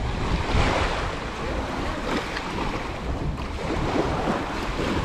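Sea waves washing onto a sandy beach, with wind buffeting the microphone as a low, uneven rumble.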